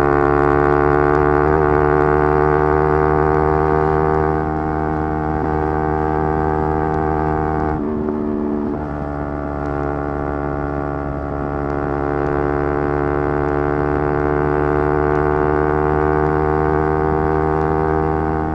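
Yamaha R3's parallel-twin engine running at high revs under hard throttle, its note holding and slowly climbing. About eight seconds in the note breaks off briefly and drops in level at a gear change, then picks up again.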